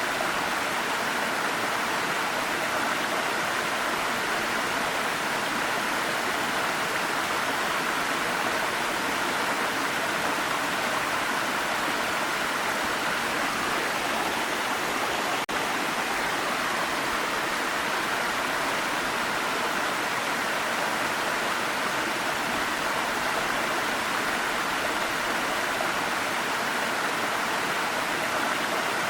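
Waterfall rushing steadily, an even wash of falling water with no change in level, and a faint click about halfway through.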